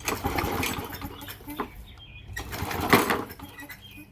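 Gas lawnmower's recoil starter pulled twice, the small engine turning over briefly with each pull without catching; the second pull is the louder. The engine is taken to be flooded with too much gas.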